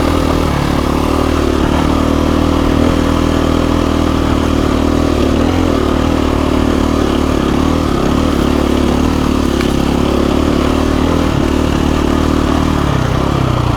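KTM 350 EXC-F dirt bike's single-cylinder four-stroke engine running steadily at fairly constant revs while riding a trail, its revs easing slightly near the end.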